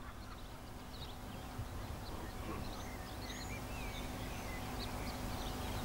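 Small birds chirping and twittering faintly, many short calls scattered throughout, over a low outdoor rumble and a thin steady hum.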